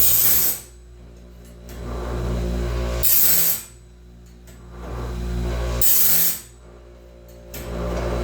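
Home-made bandsaw band sharpener grinding the band tooth by tooth in a steady automatic cycle. About every three seconds the grinding wheel touches a tooth with a short high hiss over the motor hum. The sound then drops away for about a second and swells back as the next tooth comes up.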